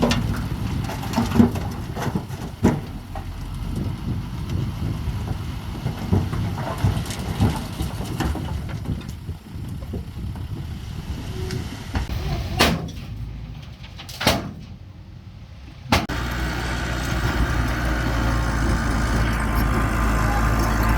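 Bulldozer working: its diesel engine runs under a dense rumble with frequent sharp knocks and clanks. About 16 seconds in, the sound changes abruptly to a steadier engine drone.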